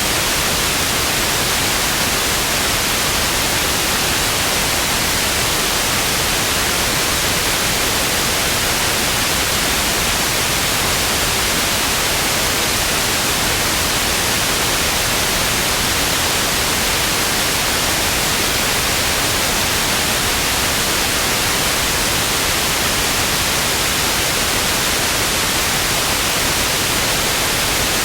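Television static: a steady, loud hiss of white noise, even and unchanging, brightest in the high frequencies.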